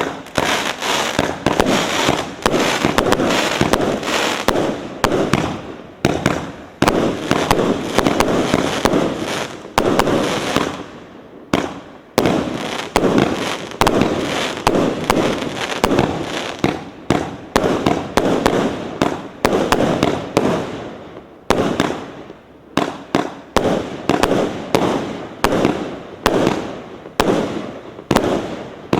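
Pyroff 'Zhar Ptitsa' (Firebird) firework going off: a dense, overlapping run of shots and bursts with crackle. After a brief lull a little past the middle, single bursts follow about once a second.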